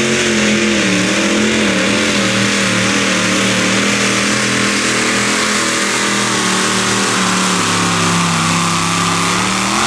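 Competition pulling tractor engine running flat out under load down the pull track. Its pitch wavers at first, then sags slowly as the load builds.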